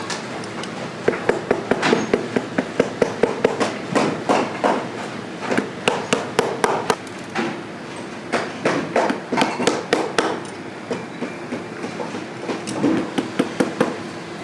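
Cobbler's hammer striking a boot in quick runs of sharp blows, about five a second, with short pauses between the runs. A steady hum runs underneath.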